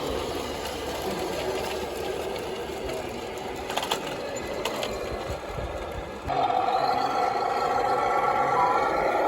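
Small electric motor of a radio-controlled model machine running, with a couple of light clicks; about six seconds in a louder, higher whine starts suddenly and holds steady.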